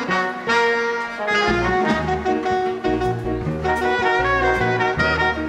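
Dance band playing a Latin rumba, with trumpets, saxophones and trombones carrying the melody over a pulsing bass line.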